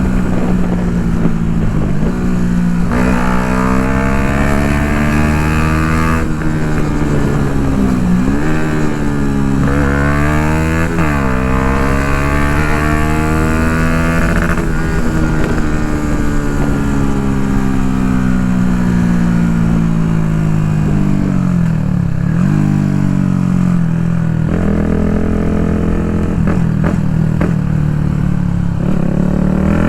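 Yamaha MT-125's single-cylinder four-stroke engine breathing through an Akrapovic full exhaust under way. The revs climb and drop sharply several times as it shifts gears, and in the middle they fall slowly for several seconds before picking up again.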